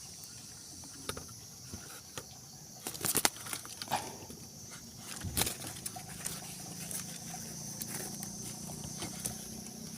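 Steady high-pitched insect chirring, with a few sharp knocks about three, four and five seconds in. A low hum comes in after about six seconds.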